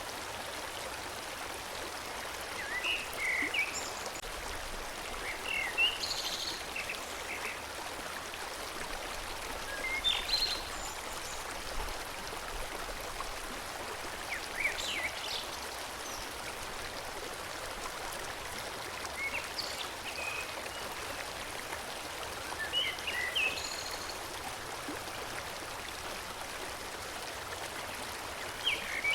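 Forest stream flowing steadily, with short bird chirps every few seconds over it.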